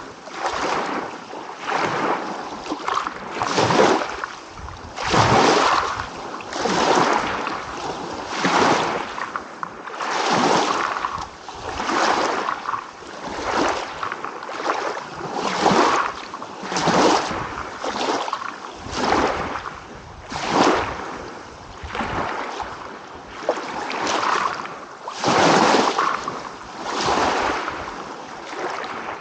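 Small waves lapping and washing in, in quick repeated surges of water about a second apart.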